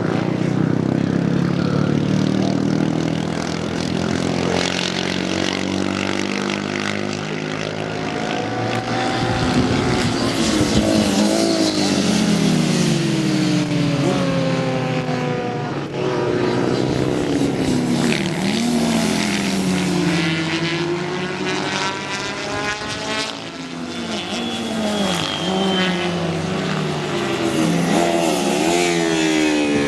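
Several vintage racing motorcycle engines at high revs, passing one after another. Their pitch climbs through the gears and drops as each bike goes by, with several engines overlapping throughout.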